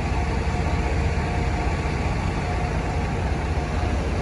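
Fire apparatus diesel engine idling: a steady low rumble.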